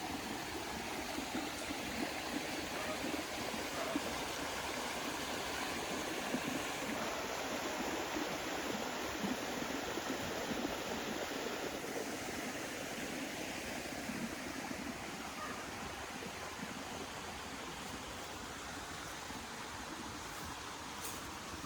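Steady rushing of running water, like a stream, with no distinct events.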